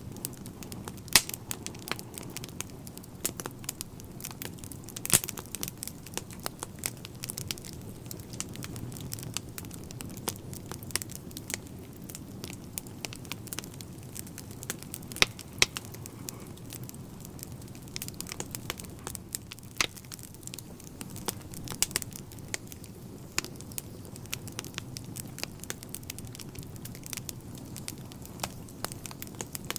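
Wood fire burning in a fireplace, with irregular sharp crackles and pops of the burning logs over a steady low rush. A few louder snaps stand out, one about a second in and another about five seconds in.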